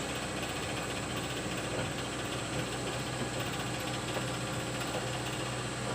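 Excavator's engine idling steadily with an even, unchanging hum.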